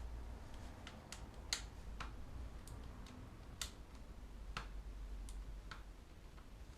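About a dozen light, sharp clicks and ticks at irregular intervals, over a low steady hum.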